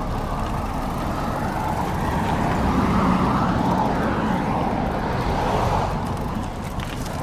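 Road traffic: a car's engine and tyres going by, swelling for a few seconds in the middle and then fading.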